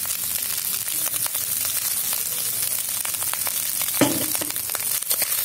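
Fried rice with egg and squid rings sizzling in a wok, stirred and scraped with a metal spatula in many small clicks. A single loud knock about four seconds in.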